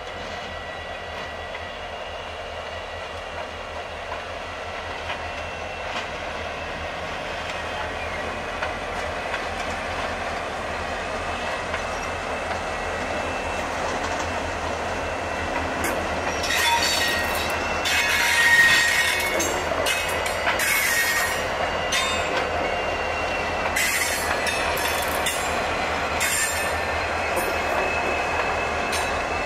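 Several diesel-electric locomotives of a freight train rumbling past at close range, growing louder as they come by, with wheels running over the rails. From about halfway in, bursts of high-pitched wheel squeal come and go several times.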